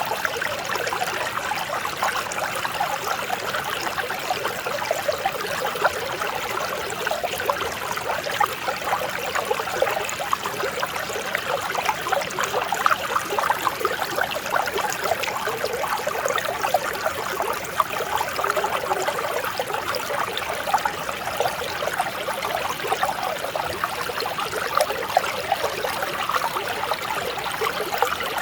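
Mountain stream flowing over rocks: a steady, even babble and trickle of clear running water.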